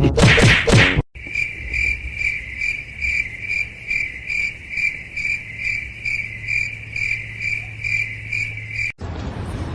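A cricket-like insect chirping in a steady rhythm of about three high chirps a second, after a short loud sound in the first second that cuts off abruptly.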